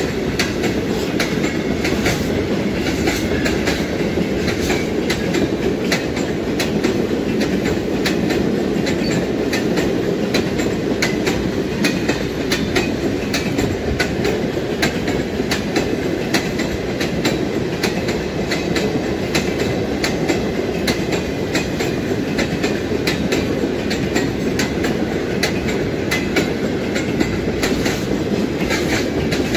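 Freight train of railway tank wagons rolling steadily past, its wheels clattering over the rail joints in a continuous run of clicks over a steady rumble.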